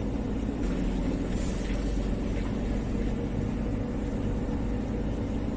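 Mercedes prime mover truck running, a steady low engine rumble with no change in pitch.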